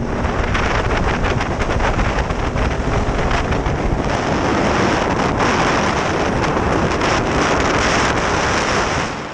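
Heavy wind rush over the microphone of a KTM 1290 Super Duke R's onboard camera at track speed, with the bike's V-twin engine running beneath it. The rush drops off near the end as the bike slows.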